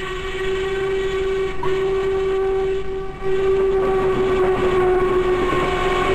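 Steam whistle of Norfolk & Western class A locomotive 1218 blowing a long, loud held note, broken briefly about three seconds in and then sounded again, over the rumble of the moving train.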